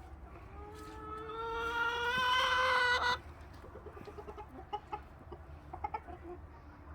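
A rooster crowing once, a long call that rises slightly and grows louder before stopping abruptly about three seconds in, followed by soft short clucking from the chickens.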